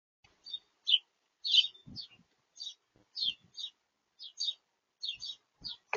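Small birds at a feeder chirping in a quick, irregular series of short high chips, about two to three a second, with a few low knocks mixed in.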